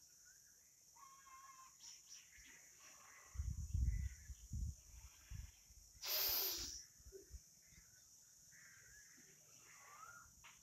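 Birds calling in the trees over a steady high hiss. Low thumps and rumbles come about three and a half to five seconds in, and a short, loud burst of rushing noise about six seconds in.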